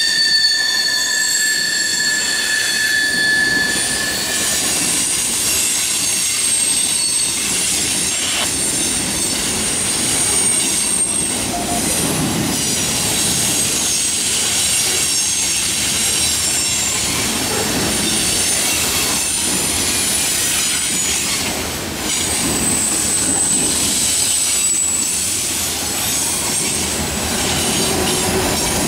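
Freight cars of a passing freight train rolling by on a curve. The wheel flanges squeal against the rail in high-pitched tones that come and go, loudest in the first few seconds, over the steady rumble and clatter of the wheels on the track.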